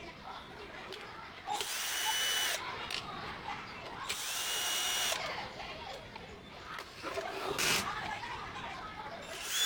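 Electric screwdriver running in two bursts of about a second each, a steady high whine, with a short blip later and a third burst starting near the end, as screws are driven out of the printer's housing.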